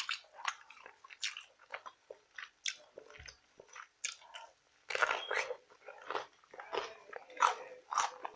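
Close-miked chewing and biting of rotisserie chicken with sauce: irregular wet mouth clicks and smacks, sparse at first and busier from about halfway through.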